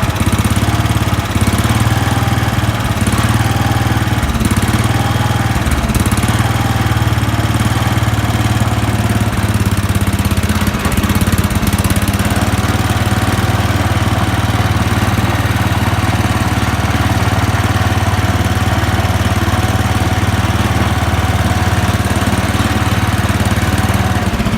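Sears SS14 garden tractor engine running steadily, on the last of the fuel in a tank that has run nearly dry.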